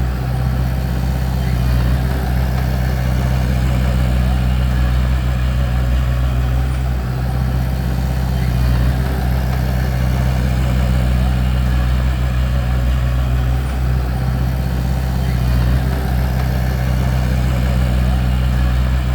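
Bulldozer's diesel engine running steadily at an even speed, a constant low drone with no revving.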